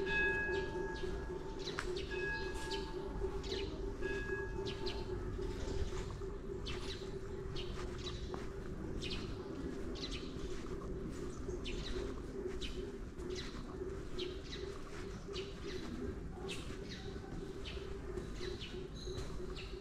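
Small birds chirping again and again, over a steady low hum. A held tone with overtones sounds in short stretches during the first five seconds or so.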